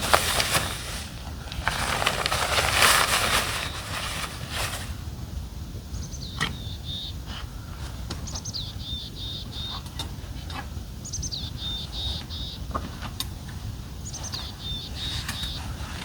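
Rustling, scraping handling noise for the first few seconds, the loudest part, then a songbird singing the same short phrase three times about four seconds apart: a falling whistle followed by a quick run of high notes.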